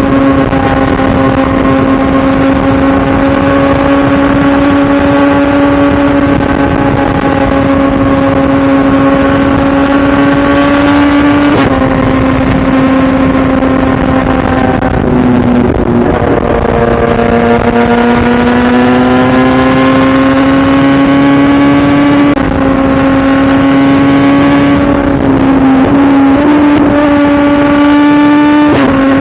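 2017 BMW S1000RR's inline-four engine pulling steadily at high revs while riding. Its pitch dips about a third of the way in, then dips further and climbs slowly back over several seconds, and drops again twice near the end as the throttle and gears change.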